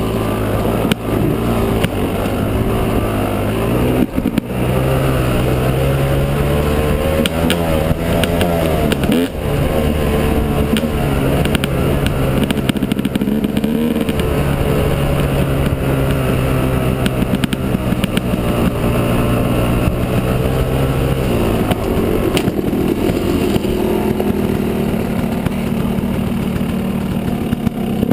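Yamaha 250 dirt bike engine running under way, its revs stepping up and down several times, with scattered knocks and clatter.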